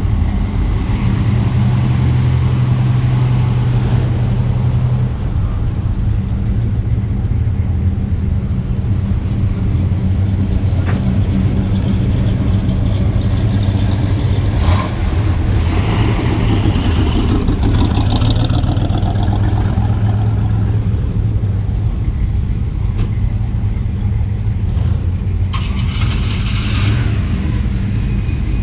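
Deep, steady rumble of car engines as cars pull away and drive past, with a short rush of noise about halfway through and another near the end.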